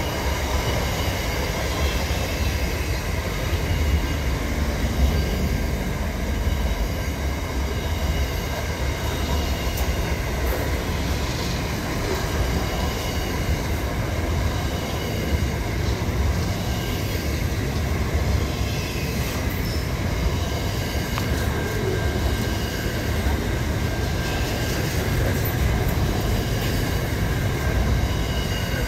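Double-stacked container freight train rolling steadily past at close range: a continuous deep rumble of wagon wheels on the rails.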